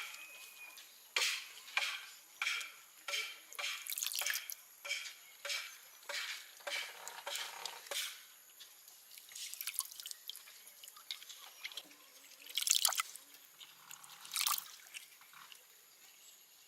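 A series of short, sharp clicks at an uneven pace, about two a second at first, then fewer and more scattered.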